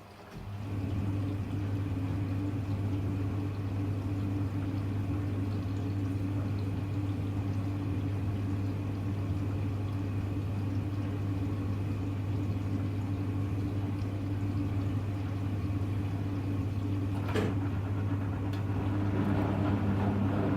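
Front-loading washing machine's drain pump starting up and humming steadily, a sign that the water is being pumped out. There is a click about 17 seconds in. Near the end a second motor note joins, as the drum begins to turn.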